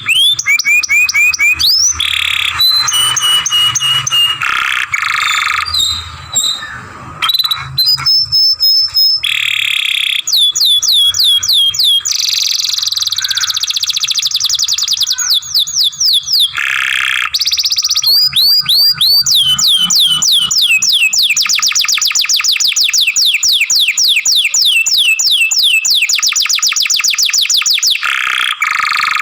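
Young canary singing a long, unbroken song. It runs through fast trills of repeated descending sweeps, rapid chopped rolls and a few held whistled notes, shifting from one phrase to the next without pause.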